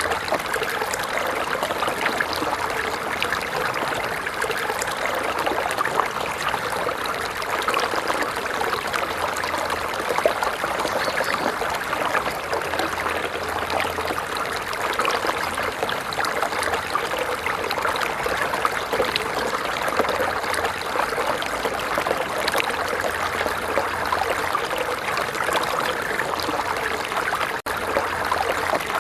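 A small stream running over stones, a steady babble and trickle of water with no pause. A brief dip near the end.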